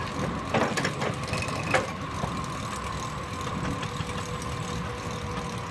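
Steam-powered sawmill rig, driven by a 1926 Keck Gonnerman steam traction engine, running steadily: a low rumble with a steady high tone over it. A few sharp knocks come in the first two seconds.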